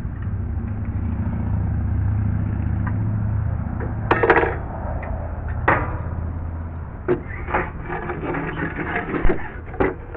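A low steady hum, like an engine running, fades out around seven seconds in. Over it come a few sharp knocks and then a run of clattering, as tools and wood are handled.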